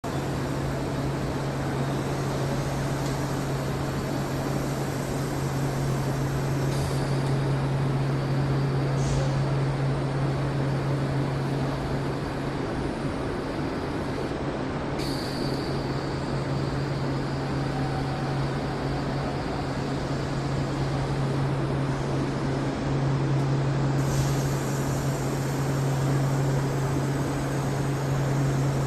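Steady low machine hum over an even hiss, with no speech. The hiss changes slightly a few times, as at cuts between shots.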